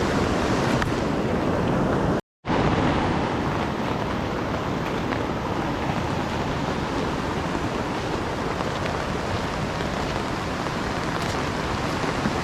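Swollen river in flood, its fast brown water rushing in a steady, dense wash of noise. The sound cuts out completely for a moment about two seconds in, then the rushing resumes.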